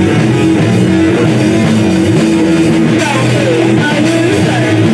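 Rock music with a prominent guitar, played by a band.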